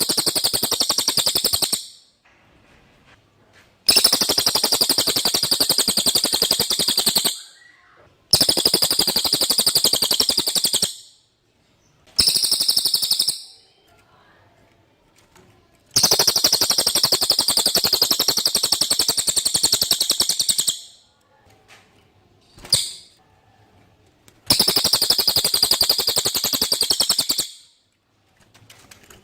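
Cililin songbird singing loud, very rapid, high trills in repeated phrases of one to five seconds, with short pauses between them.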